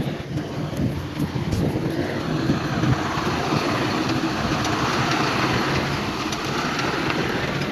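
Heavy diesel earthmoving machinery running under load, a steady engine drone with scattered clanks and knocks of metal and stone.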